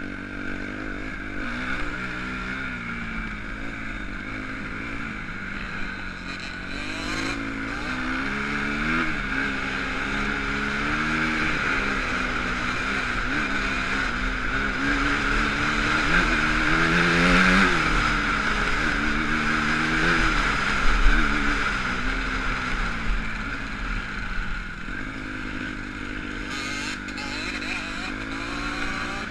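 Motocross bike engine being ridden hard, its pitch rising and falling over and over with throttle and gear changes, loudest a little past the middle.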